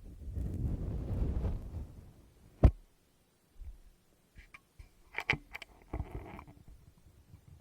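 Fingers rubbing and tapping on a Tascam recorder's microphone: a muffled rumbling handling noise for about two and a half seconds, one sharp knock, then a few light taps and clicks near the end.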